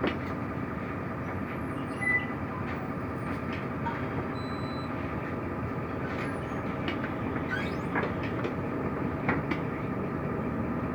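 Cabin of a Mercedes-Benz O345 Conecto LF city bus under way: steady engine and road noise with scattered rattles and clicks, and two brief high tones, one about two seconds in and one about four seconds in.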